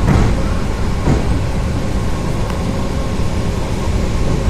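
An old electric suburban train (elektrichka) running, heard from inside the carriage: a steady rumble of wheels on the rails with a faint steady hum, and two knocks, one near the start and one about a second in.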